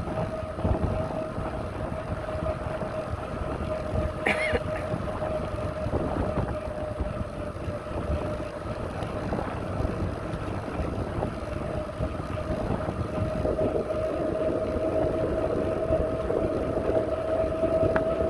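Riding noise from a bicycle ride: wind rumbling on the microphone over a steady, even whine. A short high chirp about four seconds in.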